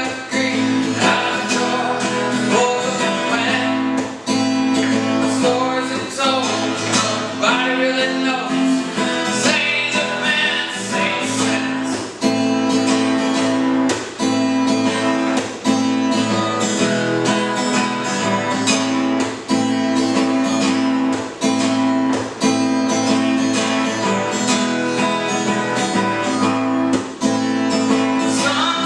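Acoustic guitar strummed steadily in a song, with a voice singing at times.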